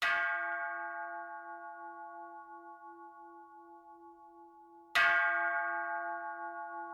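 A bell struck twice, about five seconds apart; each stroke rings on and slowly fades, with a wavering hum in its lowest tone.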